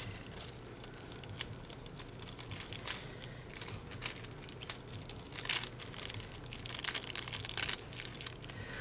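Thin plastic or foil sheets crinkling and rustling as they are handled: a scatter of small, sharp crackles that grows busier after about five seconds in.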